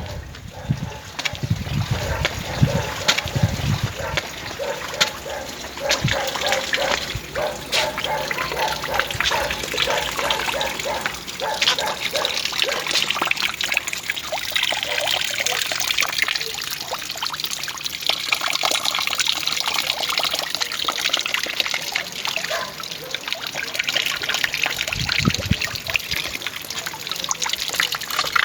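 Water trickling and splashing steadily, with many small splashes.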